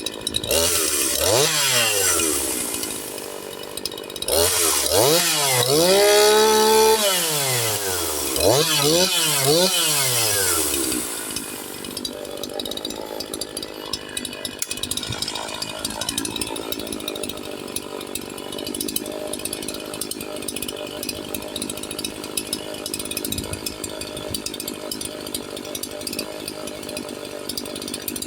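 Echo CS-4910 two-stroke chainsaw engine revved up and back down several times, once held briefly at high revs, then settling to a steady idle about eleven seconds in. Its muffler is opened up, with enlarged outlet louvers and the spark screen removed, which gives the exhaust more bark.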